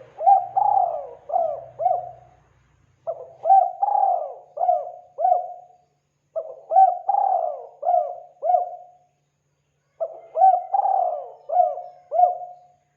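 Spotted dove (tekukur) cooing: four phrases of about five coos each, a few seconds apart.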